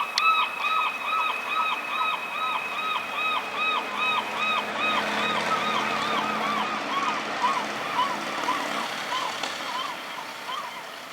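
Emergency vehicle siren in rapid yelp mode, about three to four quick up-and-down wails a second, with traffic rumbling underneath for a while; it fades near the end.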